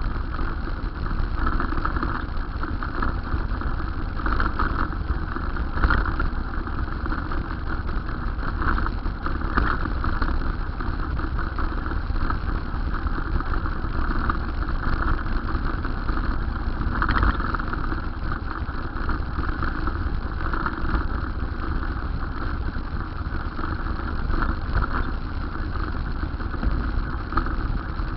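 Steady road-riding noise: a continuous low rumble of wind buffeting the microphone, with traffic and road noise over it that swells slightly now and then.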